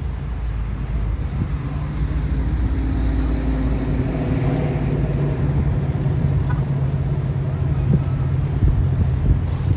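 Diesel engine of an EMD FP7 locomotive running with a steady low drone. It grows louder over the first couple of seconds, then holds steady.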